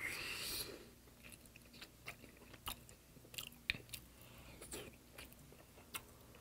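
Close-miked mouth sounds of a person biting into and chewing a soft braised potato chunk: a brief louder mouth noise at the start, then scattered faint wet chewing clicks.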